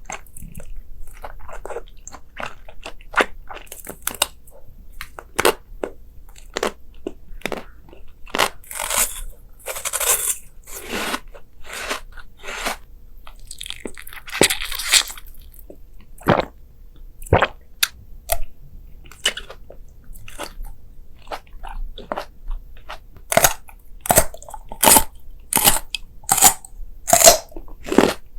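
Crunchy food being bitten and chewed, with sharp crunches throughout. Near the end the crunches come louder and more regularly, about two a second, as a steady run of chewing.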